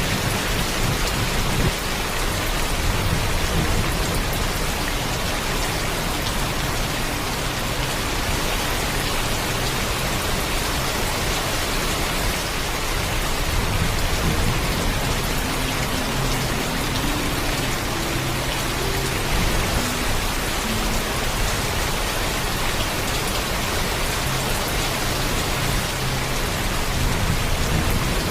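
Heavy rain falling steadily, an even hiss, with low thunder rumbling underneath that swells and fades at times.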